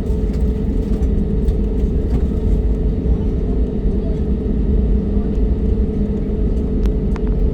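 Airliner cabin noise on the ground before takeoff: a steady low rumble of the engines and air systems with a constant hum, and a few faint clicks.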